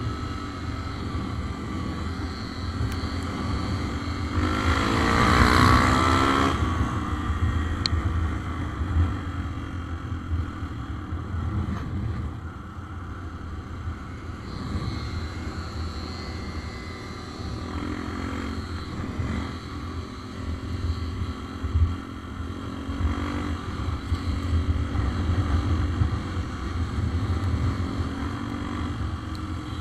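A small scooter engine running under way with a steady rumble. The engine note swells louder about five seconds in, rising and then falling in pitch, and shifts again a few more times.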